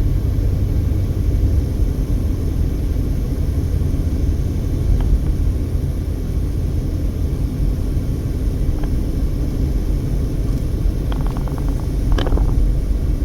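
Car driving, with road and engine noise as a steady low rumble heard from inside the cabin. A few faint clicks come through, and a short run of ticks sounds near the end.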